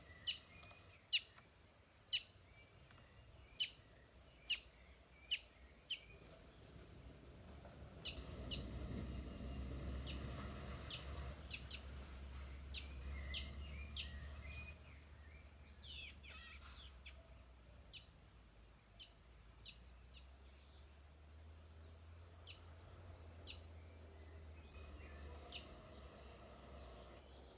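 Wild birds calling: sharp short chirps, about one a second for the first six seconds, then scattered chirps and calls from several birds. From about eight seconds in, a steady rushing noise with a low rumble runs for several seconds under the calls.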